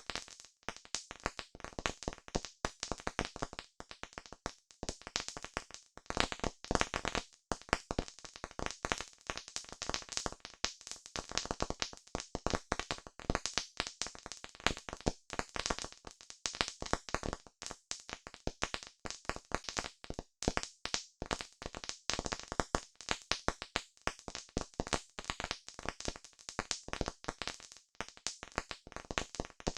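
Campfire crackling: a dense, irregular stream of pops and snaps from burning wood, with no let-up.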